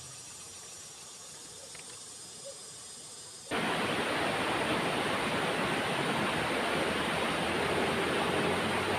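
Waterfall rushing: a steady, loud roar of falling water that cuts in abruptly about three and a half seconds in, after a few quiet seconds.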